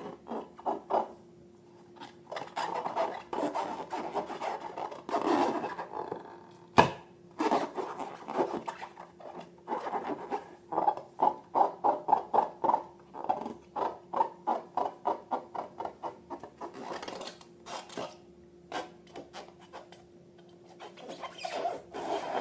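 Slime being squeezed and kneaded by hand, making runs of quick wet clicks and squelches at about four a second with short pauses, and one sharp snap about seven seconds in.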